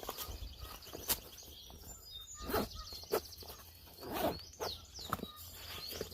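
Small birds chirping, with short high trilled and down-sweeping notes, over a few scattered sharp cracks and knocks.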